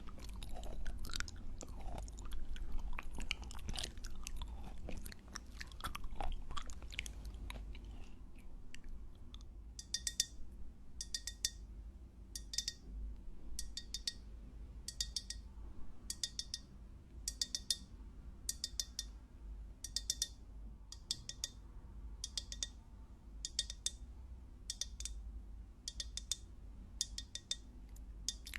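Popping boba chewed close to the microphone, a dense run of small irregular crunches and pops. About ten seconds in, the chewing gives way to a regular series of short, high, ringing ticks, roughly one every three-quarters of a second.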